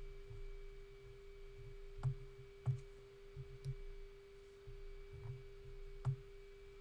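Quiet room tone with a steady electrical hum, broken by a few faint, scattered clicks.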